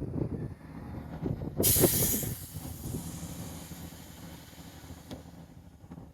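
Air brakes releasing: a sudden loud hiss of compressed air about one and a half seconds in, fading away over several seconds, over the low rumble of a running diesel engine.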